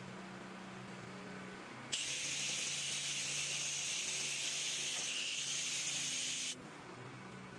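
Soft-wash sprayer spraying cleaning solution: a loud hiss that starts suddenly about two seconds in, runs steadily for about four and a half seconds and cuts off sharply. Under it a steady low motor hum.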